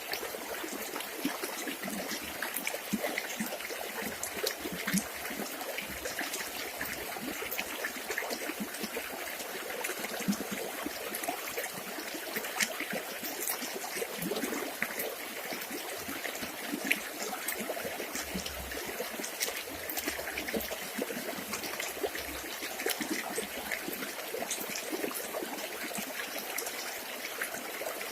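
A small river running and trickling over stones, a steady splashing and bubbling with many small crackles.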